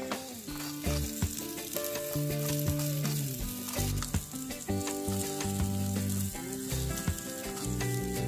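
Chopped onions sizzling in hot oil in a miniature pot, with a spoon scraping and stirring them. Background music with held notes plays underneath.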